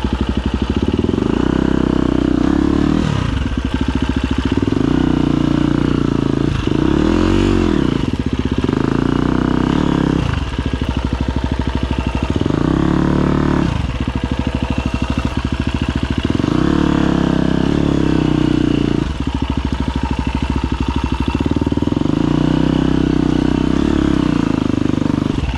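Husqvarna FE250 four-stroke single-cylinder dirt bike engine running at low revs under load, its pitch swinging up and back down every few seconds as the throttle is opened and closed.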